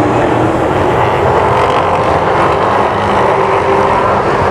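Late model stock car engines running at racing speed: a loud, steady engine drone with slight rises and falls in pitch.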